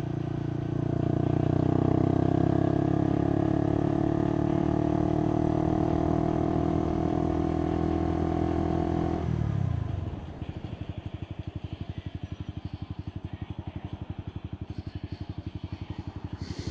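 Motorcycle engine running at a steady speed, then about nine seconds in it drops away to a quieter, fast, even putter, as at idle.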